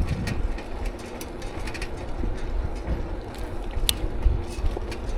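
Riding noise from a bicycle: a steady low wind rumble on the microphone, with scattered short rattles and clicks from the bike. One sharper click comes nearly four seconds in.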